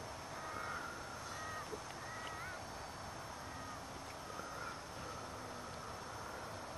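Several short bird calls, a few of them gliding upward, over a steady outdoor hiss.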